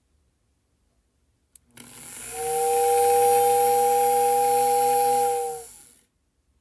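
Marx #2960 Whistling RR Station's motor-driven toy whistle: a click, then one steady two-note whistle blast lasting about four seconds over a hiss, with the small electric motor audibly winding up at the start and down at the end. The repaired motor armature is running it.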